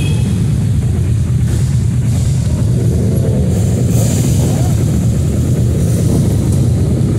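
Motorcycle engine running steadily while riding, a constant low rumble with slight shifts in pitch a few seconds in.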